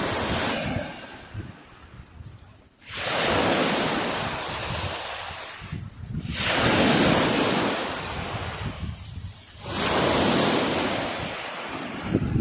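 Black Sea waves breaking, a rushing surge about every three and a half seconds that swells and then fades. Wind buffets the microphone.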